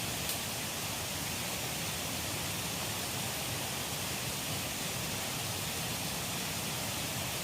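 River water rushing steadily, an even hiss without let-up; a single faint click sounds just after the start.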